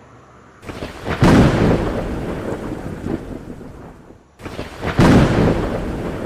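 Two claps of thunder about four seconds apart, each breaking in suddenly, swelling to a loud peak and then rolling away.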